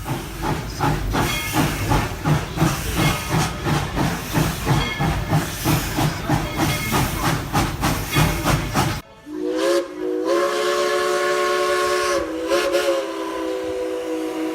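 Tweetsie Railroad No. 190 steam locomotive working, a steady rhythm of exhaust chuffs with hissing steam. About nine seconds in the chuffing stops and the chime steam whistle sounds one long blast, its chord wavering briefly near the end.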